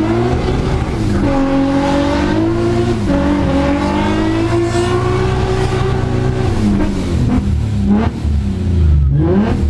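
Nissan car engine revving hard, its pitch climbing, holding high and dropping back several times, with a sharp rise again near the end.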